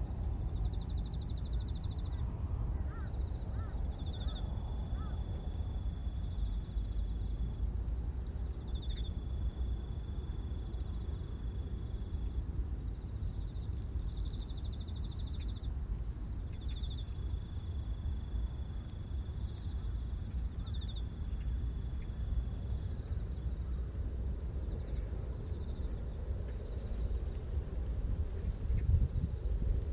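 Crickets and other grass insects singing together. One keeps up a continuous high trill, another chirps in a steady rhythm of about one pulse a second, and a lower trill comes and goes. A steady low rumble of wind runs underneath.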